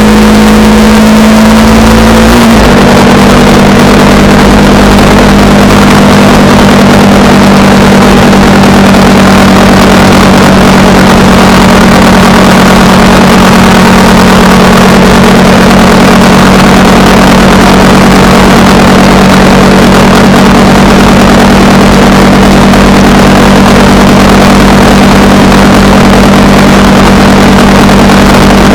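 Honda Rebel 300's single-cylinder engine running at a steady road speed under loud wind noise. The engine note drops a step about two and a half seconds in, then holds steady.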